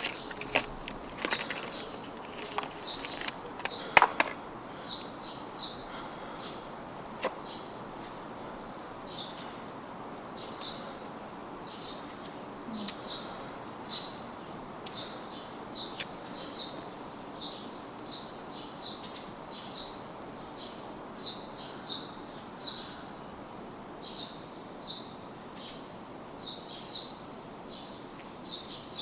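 A small bird chirping over and over, short high chirps about one or two a second, over a faint steady background hiss. There are a few sharp clicks in the first few seconds and a couple more later on.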